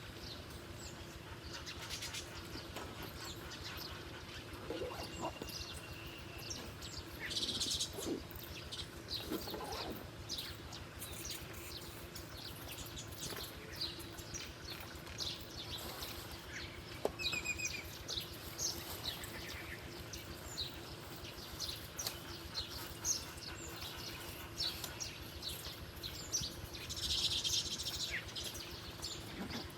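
Wild birds chirping and calling outdoors: many short, high chirps and brief trills scattered irregularly, over a faint steady hum.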